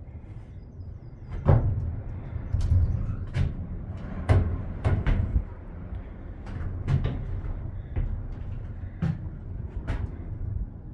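About ten irregular sharp knocks and clacks, a second or so apart, over a steady low rumble.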